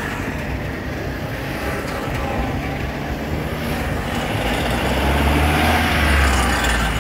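Trabant cars' small two-stroke engines driving past one after another. Near the end an old truck's engine rumble grows louder as it rolls closer.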